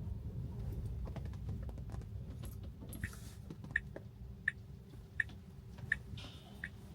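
A car's turn-signal indicator ticking evenly, about three ticks every two seconds, starting about three seconds in, over low road rumble inside the cabin. Scattered light clicks come before it.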